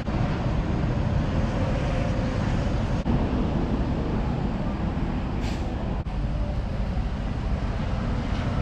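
Steady road and engine noise of a car driving, broken by short cuts about every three seconds.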